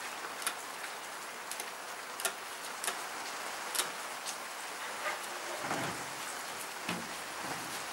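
Heavy rain falling steadily on the garage roof, heard from inside, with a few short spritzes from a hand spray bottle over it.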